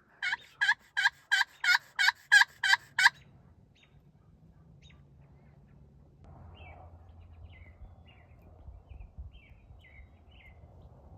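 A run of about nine loud turkey yelps, evenly spaced at about three a second, then stopping. Faint small-bird chirps follow over a low background rumble.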